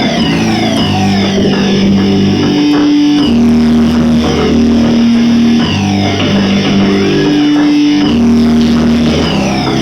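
Live rock band playing an instrumental passage: electric guitars over sustained bass notes that change every second or two, with no singing.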